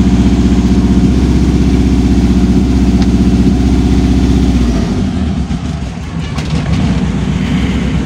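Old car's warmed-up engine idling steadily while it recharges a run-down battery, the sound turning rougher and less even about five seconds in.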